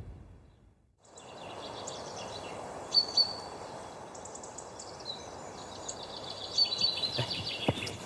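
Outdoor ambience: after a brief silence at the scene change, a steady background hiss with small birds chirping, a couple of short chirps about three seconds in and a denser run of chirps near the end.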